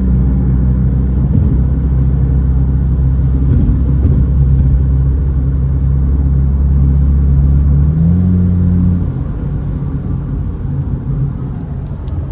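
Car engine and road noise heard from inside the cabin while driving: a steady low drone that shifts up in pitch about eight seconds in, then drops away and gets somewhat quieter.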